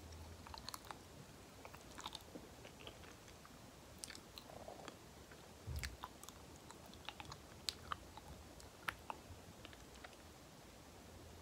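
Close-miked chewing of soft banana with sticky, wet mouth sounds: scattered small clicks and smacks of the lips and tongue, with a low thump a little over halfway through.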